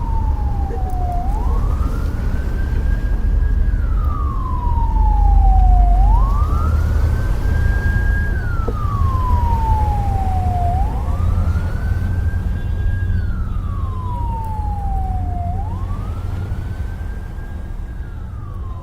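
Police siren on a slow wail: each cycle rises, holds at the top, then slides slowly down, repeating about every five seconds, over a steady low rumble.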